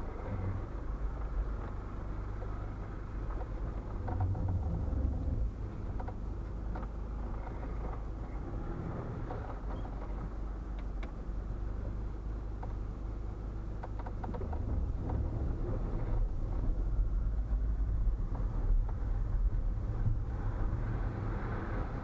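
A vehicle running with a steady low rumble and scattered light clicks, growing a little louder about two-thirds of the way through.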